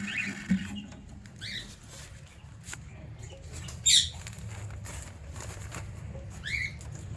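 Cockatiels giving three short, upward-sweeping chirps, the middle one the loudest, with light clicks and taps in between.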